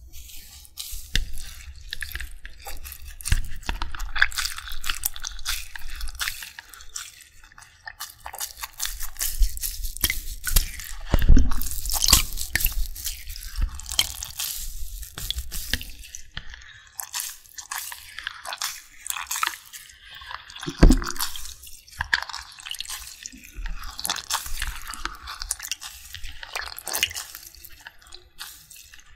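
Water dripping and splashing close to the microphone, with dense crackling and squishing, and two louder knocks roughly a third and two-thirds of the way through.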